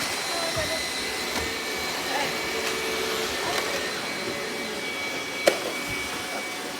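Robot vacuum running steadily, its suction fan giving an even whir with a thin high-pitched whine. A single sharp knock about five and a half seconds in.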